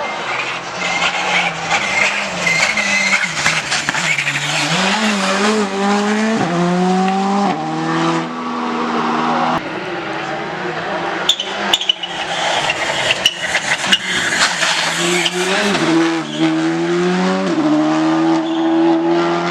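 Rally car engines accelerating hard through the gears, the pitch climbing and dropping back at each upshift, twice over. Sharp pops and cracks come in the middle.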